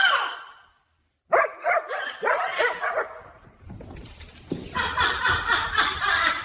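A series of short, pitched animal calls of a barking, yipping kind, coming denser and quicker from about four and a half seconds in.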